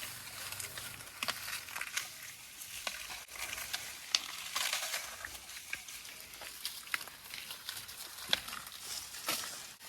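Dry plant leaves rustling and crackling, with irregular sharp snaps throughout.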